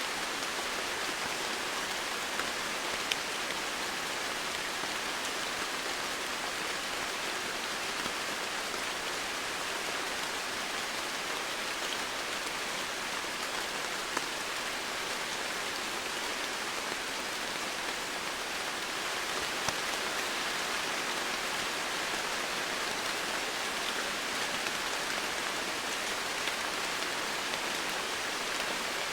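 Steady heavy rain falling on foliage and ground, an even hiss with the odd sharper drop tick standing out.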